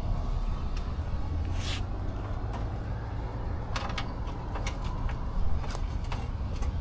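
Steady low rumble, with a few short clicks and scrapes from hand work around about two seconds in, near the middle and toward the end.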